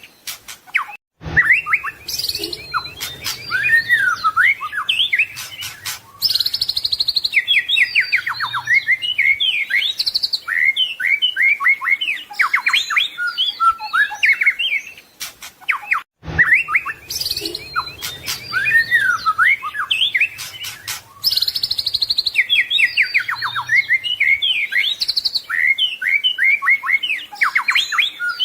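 White-rumped shama singing a rapid, varied song of whistles, trills and sweeping notes, packed with imitated phrases as in a 'full isian' training recording. The recording loops: the same run of phrases restarts after a short break about midway.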